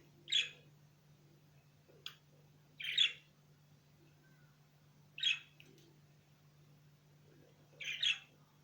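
Small birds giving short, harsh chirps, four loud calls a couple of seconds apart, with a few fainter brief chips between them.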